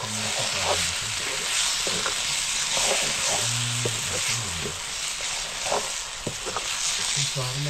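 Food frying and sizzling in a pan while a spoon stirs it, with a few short knocks of the spoon against the pan.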